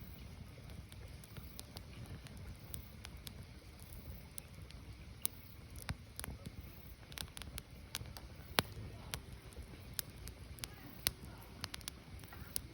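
Wood fire burning, crackling with irregular sharp pops over a low steady rumble.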